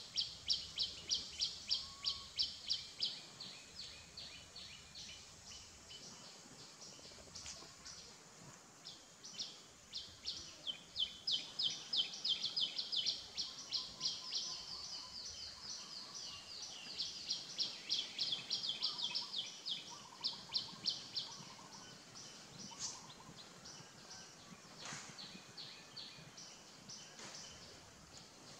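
A bird calling in long runs of short, high chirps, about five a second, pausing now and then between runs, with a few fainter lower calls in the background.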